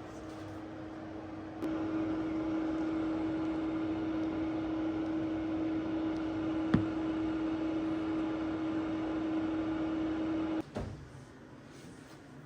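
Microwave oven running with a steady hum that grows louder about a second and a half in and cuts off suddenly near the end, with a single click midway.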